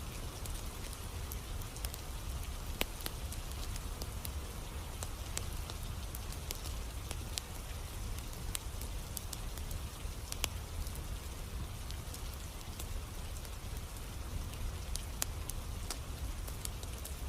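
Campfire burning in steady rain: an even rain hiss with a low rumble, broken by scattered sharp crackles and pops.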